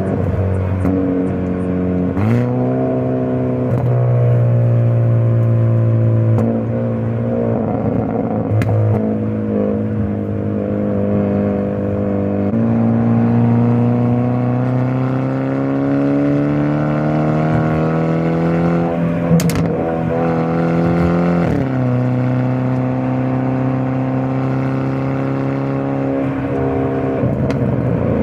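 Hyundai Avante N's 2.0-litre turbocharged four-cylinder engine and exhaust on the move in N mode, the engine note rising and falling with the revs. The pitch jumps up sharply about two seconds in, then climbs steadily through the middle before dropping back, with one sharp crack shortly before the drop.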